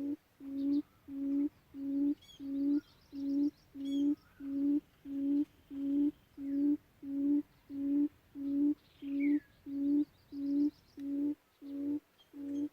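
Decoy quail call used to lure quail into traps: a low, hooting note repeated evenly a little under twice a second, with faint chirps of other birds higher up.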